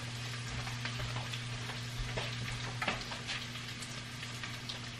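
Ground beef frying in its own fat in a pan: a steady sizzle with scattered small pops and crackles. A low steady hum runs underneath.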